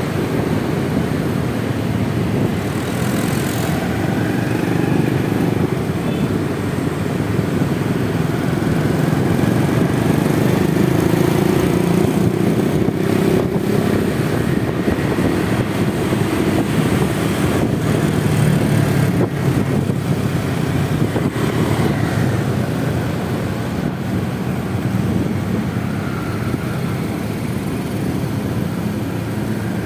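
Honda Vario 125 scooter's single-cylinder engine running steadily under way, with road noise from the ride.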